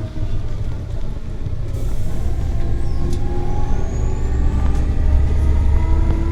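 Scania L94UB bus with its compressed-natural-gas engine and automatic gearbox heard from inside, pulling away with a heavy low rumble, its engine and gear tones climbing steadily in pitch as it gathers speed. A short air hiss comes about two seconds in.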